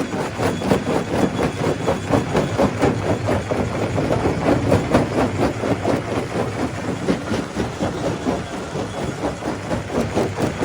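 Stone crusher running under load, with a rapid, uneven clatter of knocks, several a second, as rock is broken up.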